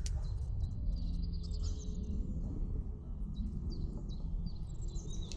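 Low rumble of wind on the microphone, with a small bird calling repeatedly in short, quick falling chirps.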